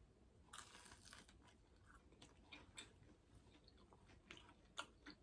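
Faint biting and chewing of a breaded, oven-baked veggie corn dog: a crunchy bite about half a second in, then soft chewing with small wet clicks.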